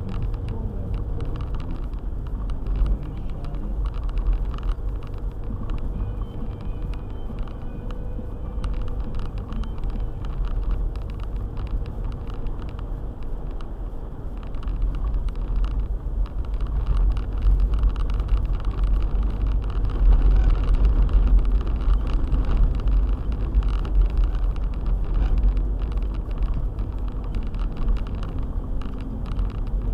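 Four-wheel-drive car driving on a snowy road, a steady low rumble of engine and tyres. It grows louder past the middle, then eases off near the end.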